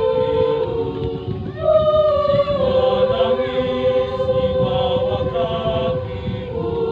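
Church choir singing in harmony, the voices holding long notes and swelling louder about a second and a half in.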